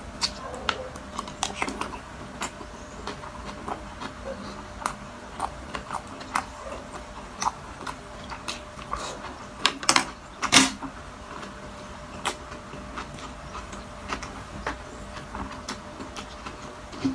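Close-miked eating of balut with vinegar dip: chewing with a scatter of sharp wet mouth clicks and smacks at an irregular pace, loudest in a cluster about ten seconds in.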